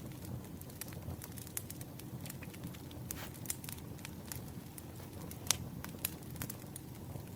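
Campfire crackling: a steady low rumble of burning with frequent sharp, irregular pops, the loudest about five and a half seconds in.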